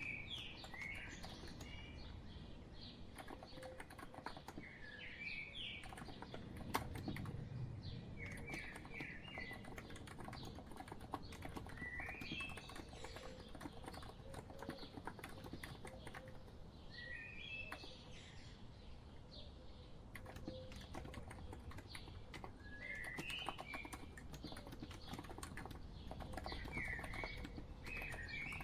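Steady typing on a COX Empress electro-capacitive keyboard, a dense run of soft key clicks throughout. Short songbird chirp phrases rise and fall over it every few seconds.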